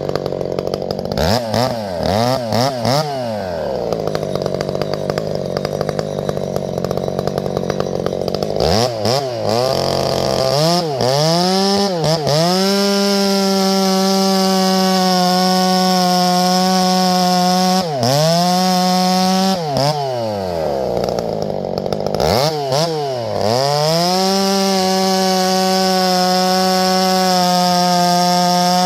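Husqvarna 372XP-based two-stroke chainsaw, fitted with a different muffler, idling and then blipped up and down a few times; from about 12 s in it is held at high revs, dropping off throttle briefly three times.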